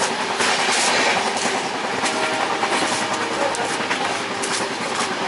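Indian Railways passenger coach running at speed, heard at its open door: the steady rush and rumble of the moving train with rail clatter.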